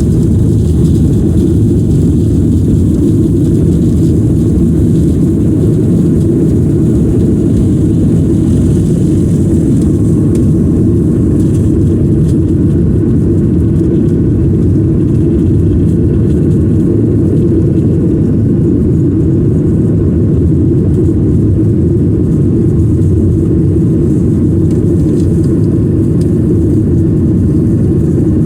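Steady low roar of a jet airliner's engines and airflow heard inside the passenger cabin, even and unchanging.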